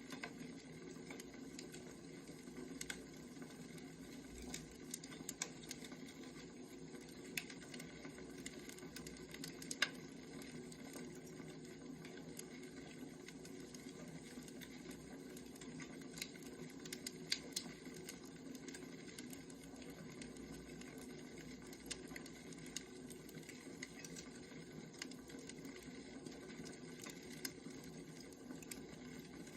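Wood fire crackling, with irregular sharp pops over a low, steady rumble.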